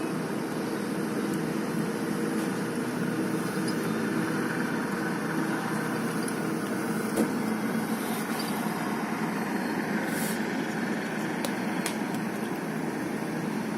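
A heavy engine idling steadily, with a single sharp click about seven seconds in.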